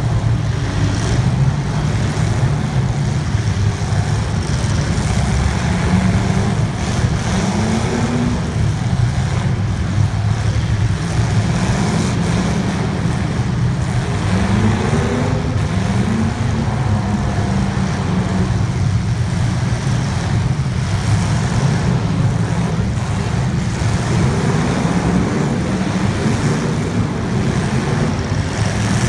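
Limited weld race cars' engines running in a race, a loud, steady drone whose pitch keeps rising and falling as the cars rev and lift.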